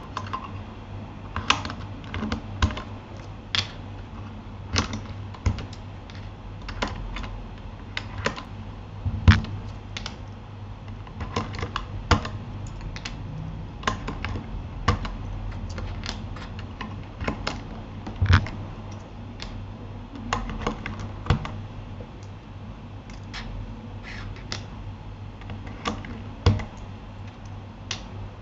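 Typing on a Keychron K8 mechanical keyboard fitted with Gateron Aliaz silent tactile switches: irregular keystrokes at an uneven pace, some louder than others, over a steady low hum.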